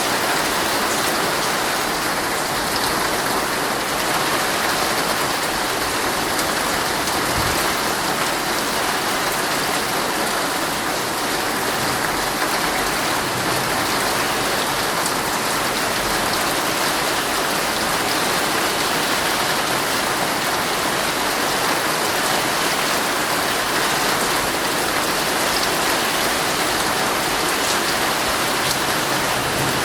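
Heavy rain falling steadily on a tent, heard from inside.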